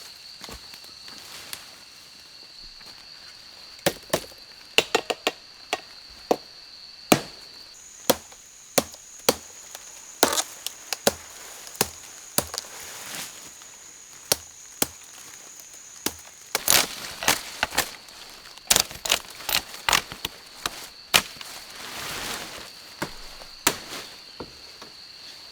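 Repeated chopping into wood, sharp irregular strokes coming in quick clusters from about four seconds in. Behind it a steady high insect drone that shifts pitch twice.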